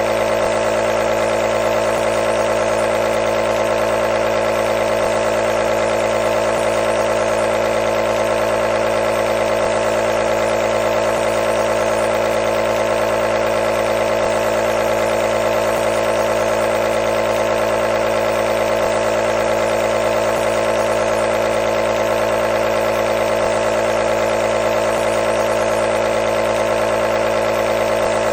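Nebulizer compressor running steadily: a continuous mechanical buzzing hum with a strong mid-pitched tone and a fast, even pulsing.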